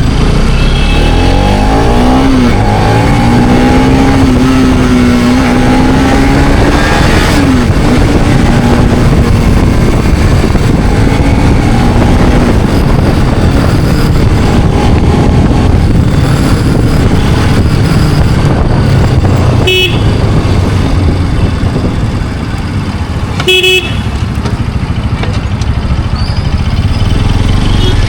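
Bajaj Pulsar RS200's single-cylinder engine running loud through its exhaust. It is revved in the first half, its pitch wavering up and down, then runs on steadily.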